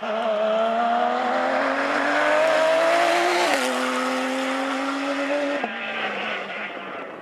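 Porsche rally car's flat-six engine accelerating hard, its pitch climbing steadily, then an upshift about three and a half seconds in. It pulls on in the next gear until the throttle is lifted near the end, and the engine note drops away and fades.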